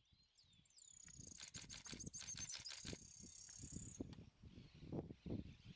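Tufted tit-spinetail singing: a couple of short falling notes, then a high, thin trill of rapid notes that starts about a second in and stops about four seconds in. A low rumble runs underneath.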